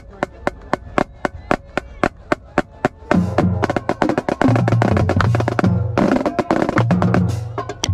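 Marching drumline: a steady click, about four a second, keeps time, then about three seconds in the full line comes in, with snare drums and tuned marching bass drums playing a cadence on several different pitches.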